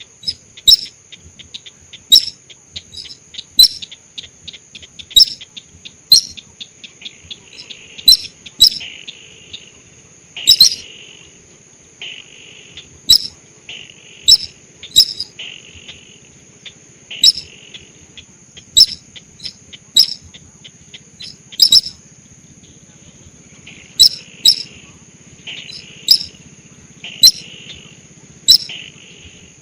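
Lure-call recording of the sintar sawah paddy-field bird: sharp, loud chirps repeating about every second or so, over a steady high insect-like trill. From about seven seconds in, short raspy calls come between the chirps.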